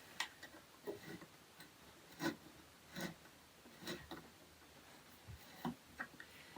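Faint, scattered clicks and taps, about six over the few seconds, from parts of a flat-pack storage rack being handled and fastened with an Allen key during assembly.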